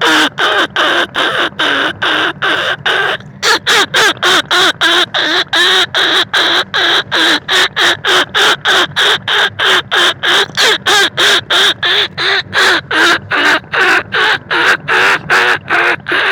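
Rat lure call: rapid, repeated squeaking cries of rice-field rats and bandicoot rats, about three a second, with a short break about three seconds in. It is played to draw the rats in for hunting.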